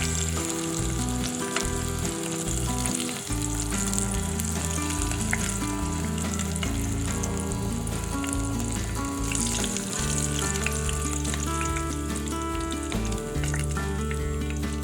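Zucchini pieces frying in hot oil in a pan, with a steady sizzle throughout, under background music.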